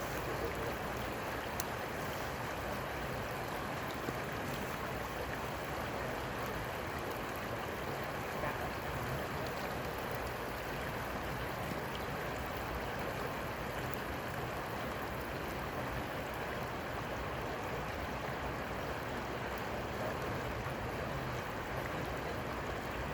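Steady, even rush of flowing river water, with no breaks or changes.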